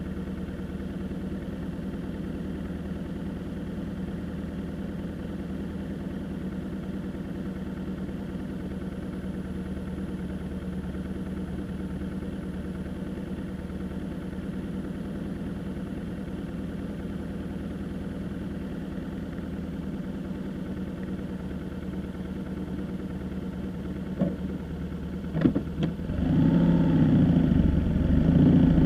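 A vehicle engine running at a steady note, with a few sharp clicks late on, then getting louder in the last few seconds as its pitch rises and falls.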